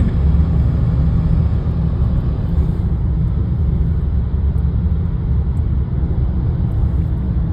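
Steady low rumble of road and engine noise, heard from inside a moving car's cabin.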